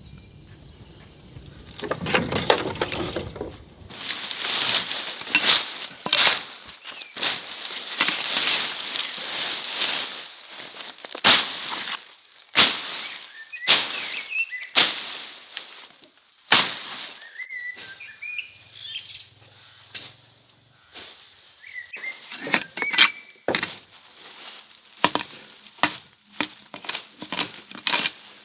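A long run of irregular sharp knocks and crunches, with a few short bird chirps in between.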